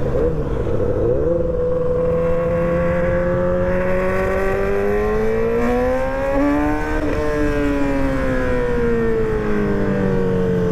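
Motorcycle engine running under way. Its pitch dips briefly at the start, climbs slowly to a peak about seven seconds in, then falls away.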